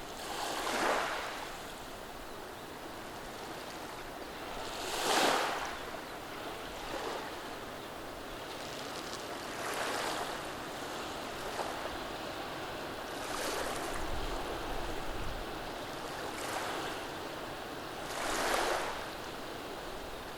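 Gentle waves of a calm sea washing over a beach of rounded cobbles, a soft swell of surf about every four to five seconds over a steady hiss.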